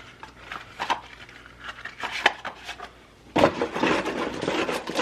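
Unboxing packaging being gathered up by hand: a few light clicks and knocks, then, a little past three seconds in, a louder stretch of rustling and handling noise.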